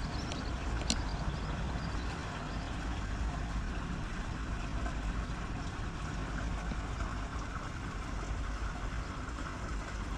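Steady heavy rain: an even hiss over a low rumble, with one sharp tick about a second in.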